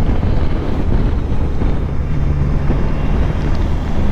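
Steady road and wind noise inside a moving car's cabin: a low rumble of tyres and engine at speed, with a faint low hum coming in about halfway through.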